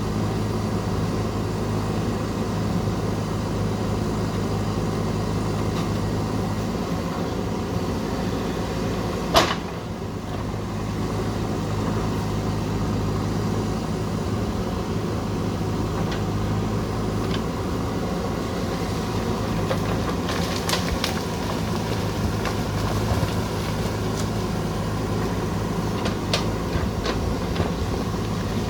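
JCB backhoe loader's diesel engine running steadily, with one sharp clank about nine seconds in and a few lighter knocks near the end.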